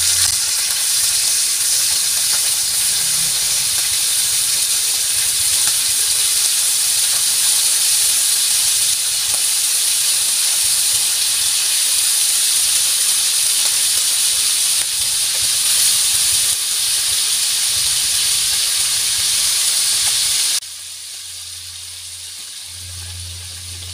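Marinated beef slices sizzling loudly as they fry in hot margarine. The steady hiss drops off sharply near the end.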